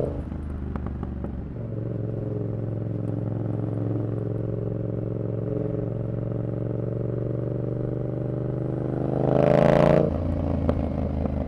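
Yamaha XSR700's parallel-twin engine through a Kelpi short full exhaust, running steadily while riding after easing off at the start. Near the end the note rises in pitch and loudness with a rush of noise, then drops suddenly as the throttle closes.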